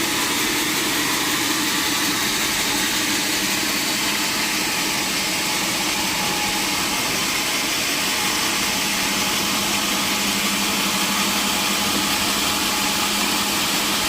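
Sawmill machinery running steadily, a constant mechanical hum with a few steady tones and no breaks.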